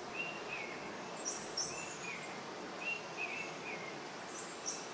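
Birds calling over a steady background hiss. Short chirps that drop in pitch at the end come every second or so, and a high double note sounds twice.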